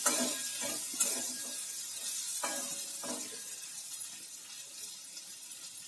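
Potatoes and onion flower stalks frying in a steel kadai: a soft sizzle while a spatula stirs and scrapes across the pan. The scrapes come in the first three seconds, and the sizzle slowly fades.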